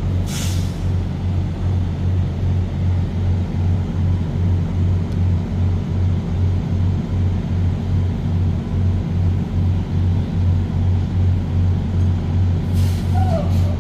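Truck engine droning steadily with a low, evenly pulsing hum. A short hiss comes just after the start, and another near the end.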